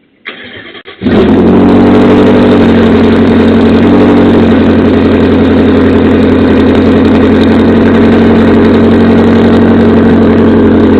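Heavily modified BMW M5's exhaust, super loud: the engine comes in suddenly about a second in and holds a steady idle.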